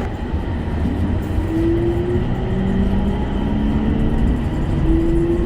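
Steady rumble of road traffic and vehicle engines on a city street, with a faint whine slowly rising in pitch.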